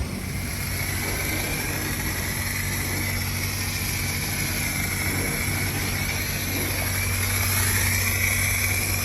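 Ford Mustang GT's straight-piped V8 cruising steadily under way, with a steady low exhaust drone and road noise, swelling slightly near the end.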